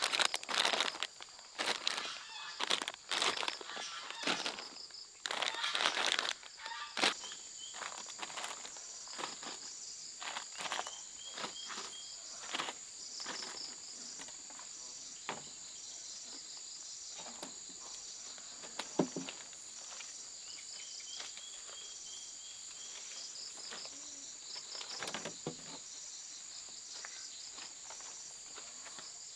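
Insects droning steadily at a high pitch, with a pulsing rhythm. Rustling and crackling handling noises are loud for the first several seconds and then turn sparse, and a few short bird chirps come in now and then.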